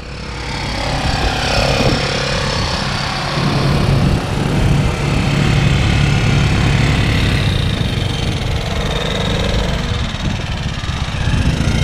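Motorcycle engine running while riding, building up over the first couple of seconds and then holding steady.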